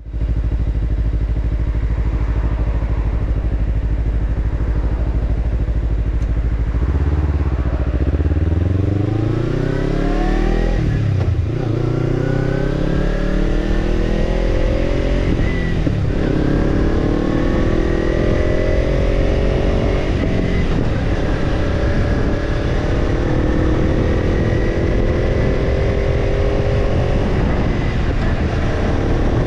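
Kawasaki Ninja 250 parallel-twin engine, breathing through a BEET NASSERT Evolution Type II titanium slip-on muffler, idling steadily, then pulling away about seven seconds in and accelerating up through several gears, the exhaust note rising and dropping back at each upshift.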